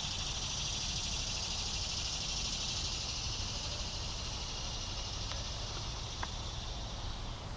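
Cicadas singing: a continuous high-pitched buzzing drone that holds steady without a break.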